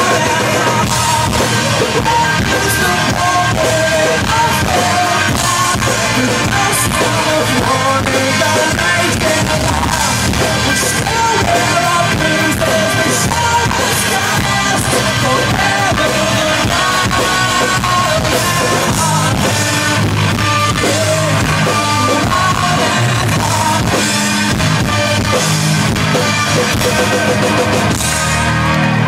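Live rock band playing: drum kit, guitars and singing, loud and dense.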